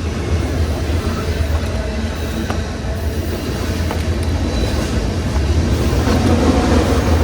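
Freight train rolling past: a steady low rumble of wheels and cars with a few sharp clicks, growing slightly louder toward the end.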